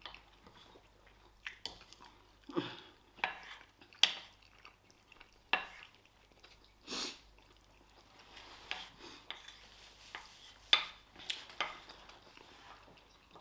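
Cutlery clinking and scraping on plates during a meal of rice and stew, about a dozen scattered clicks with quiet chewing between them. A short rushing sound comes about seven seconds in.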